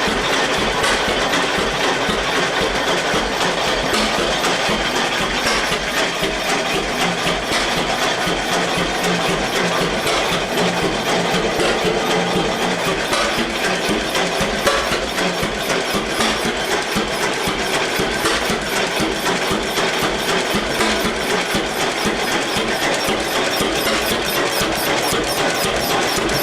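1919 Eagle 12-22 tractor's two-cylinder engine running steadily, a rapid, even beat of exhaust pulses.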